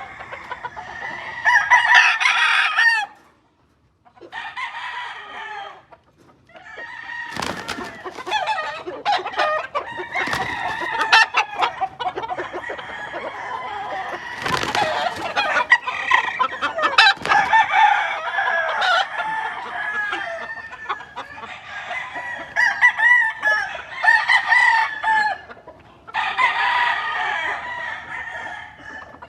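Roosters crowing, with a long crow about a second in and another near the end, and chickens clucking and calling in between. A few sharp knocks come through in the middle.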